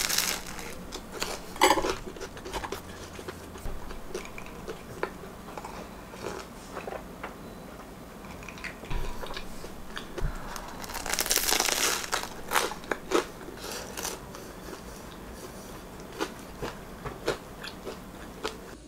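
Biting into a crusty French roll and chewing it: crisp crunching of the crust with softer wet chewing between, and a louder run of crunches about eleven seconds in.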